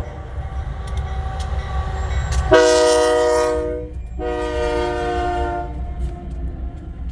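Union Pacific diesel locomotive's air horn sounding two blasts of about a second and a half each, with a short gap between them, over the steady low rumble of the passing train.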